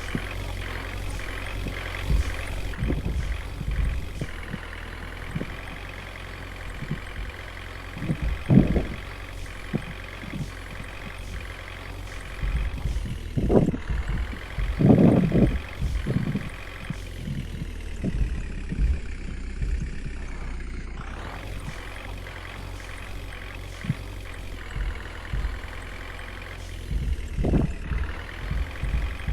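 Heavy vehicle engine running under way, its pitch wavering. Near the middle the engine sinks, then climbs sharply as it revs up again, with a low rumble and a few dull thumps throughout.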